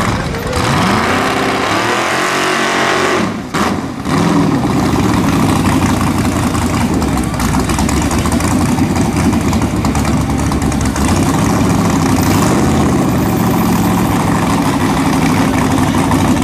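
Engine of a Nissan Z drag car revving, its pitch rising and falling for the first few seconds. A brief break about three and a half seconds in, then it runs steadily and loud at idle.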